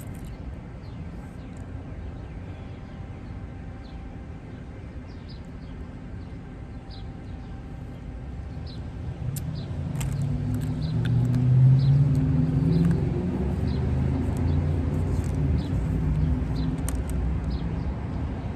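Low vehicle or traffic rumble that swells louder about ten seconds in, with faint short high chirps and a few light clicks over it.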